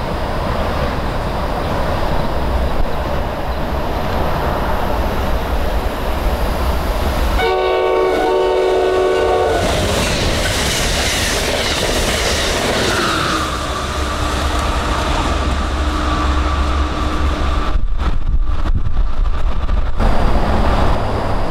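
Amtrak passenger train rumbling in and passing at speed. About seven seconds in, its locomotive horn sounds a chord for about two seconds. Then comes the rushing clatter of the cars going by, with a tone that drops in pitch and then holds.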